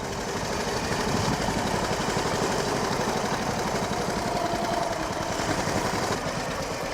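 Motorbike engine running steadily. It gets a little louder over the first second, then holds.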